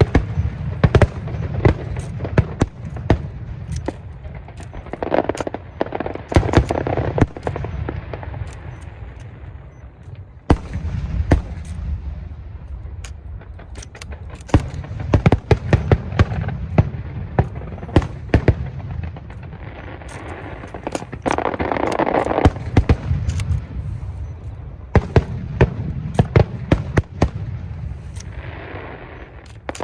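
Fireworks show: rapid volleys of sharp bangs and crackles over a low rumble, with a short lull about ten seconds in.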